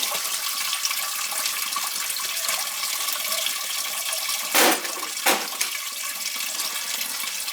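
Water rushing steadily through boiler piping, with two brief knocks a little past halfway.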